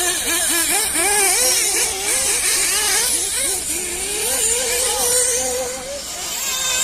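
Several RC buggies racing, their small engines repeatedly rising and falling in pitch as they accelerate and back off around the track. Near the end one holds a steady high pitch for about a second and a half.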